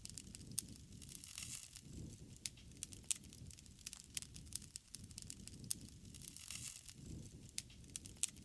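Wood fire crackling, with irregular sharp pops and snaps over a steady low rumble of flame, and a brief hissing flare-up twice.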